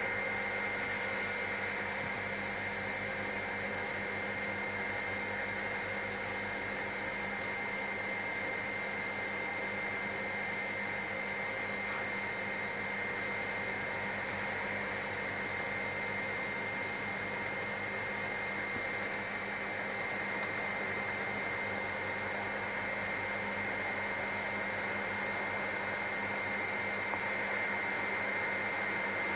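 Helicopter cabin noise in flight: a steady drone with a steady high whine above it, unchanging throughout.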